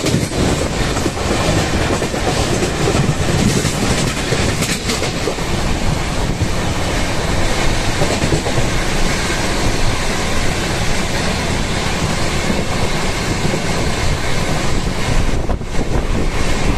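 Passenger train running at speed, heard from an open coach window: a loud, steady rush of wheels on the rails.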